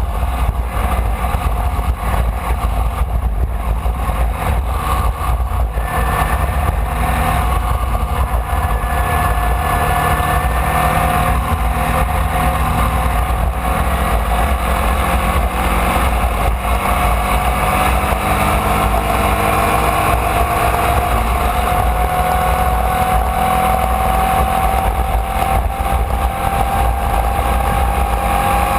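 Onboard sound of a Formula Vee's air-cooled Volkswagen flat-four engine running hard and continuously under race load. Its pitch climbs slowly and steadily through the second half as the car gains speed in gear.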